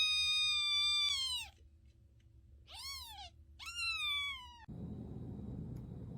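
A cat's long, high, drawn-out meow that drops in pitch as it ends, followed by two shorter meows that rise and then fall. After that only a steady low hum remains.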